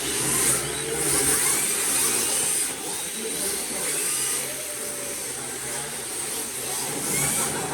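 Radio-controlled drift cars running on the track: a steady whir of small electric motors with high-pitched whine rising and falling as they speed up and slow, over faint background voices.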